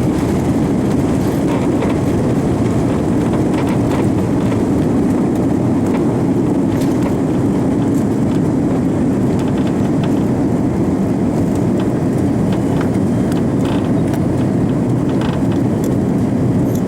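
Steady loud roar of engine and airflow noise inside the cabin of an Airbus A340-300 airliner, with a few light ticks and rattles from the cabin fittings.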